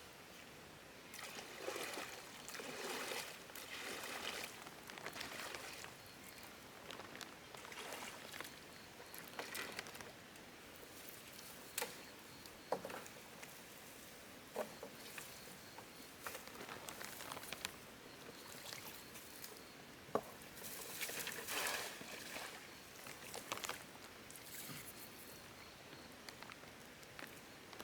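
Water sloshing and trickling in irregular swishes, with a few sharp knocks.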